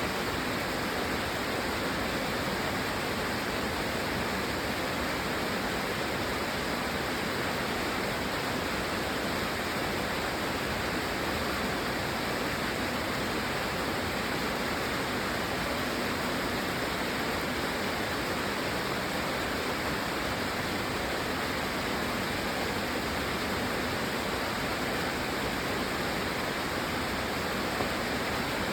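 Steady rain, a dense even hiss with no single drops or changes standing out.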